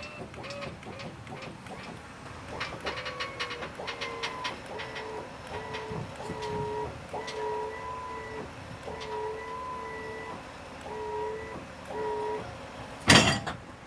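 Tow truck hydraulics whining in stretches as the lift is worked, with a few metallic clicks and rattles. A single loud clank comes about a second before the end.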